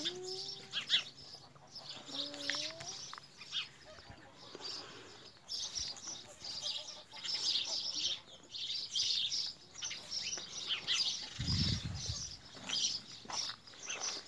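Small birds chirping busily throughout, with two short rising whines in the first three seconds and a brief low rumble about two-thirds of the way through.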